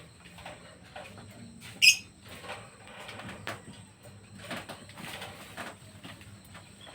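Pet birds chirping briefly now and then among faint knocks and rustles, with one sharp high-pitched sound about two seconds in.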